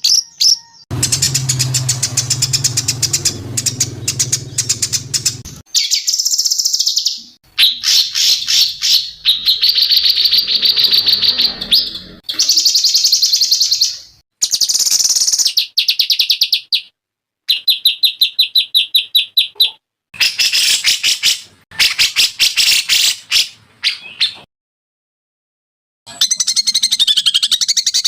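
Recorded songbird songs of several kinds, spliced one after another: fast high-pitched trills and repeated chirping phrases that start and stop abruptly, with a silent gap of about two seconds near the end.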